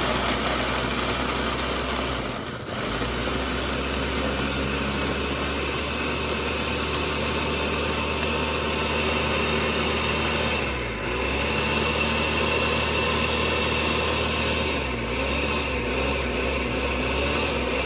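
Electric blender motor running steadily as it grinds dry puppy kibble with milk into mush, dipping briefly twice, about two and a half seconds in and again about eleven seconds in.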